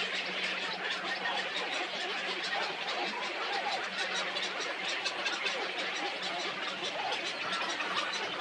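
A dense chorus of many birds chattering and calling at once, short overlapping calls with no pause, over a steady low hum.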